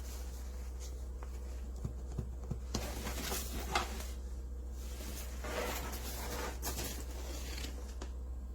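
Intermittent rustling and scraping of something being handled, in a few short bursts over a steady low hum.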